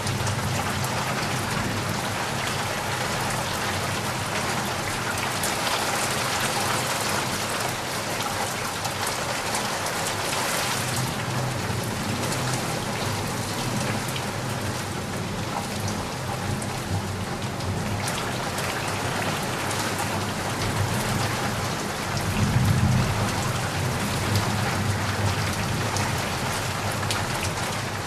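Heavy rain falling steadily, a dense even hiss of drops on surfaces. A low rumble runs underneath and swells louder about three-quarters of the way through.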